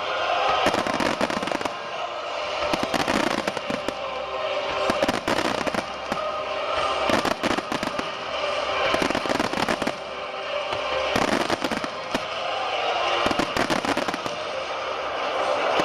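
Fireworks display: volleys of aerial shell bursts and crackling, coming in waves about every two seconds.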